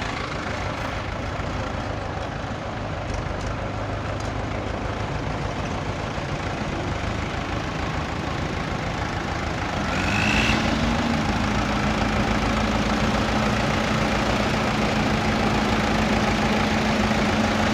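Heavy vehicle engine running steadily. About ten seconds in it grows louder and a steady low hum joins it.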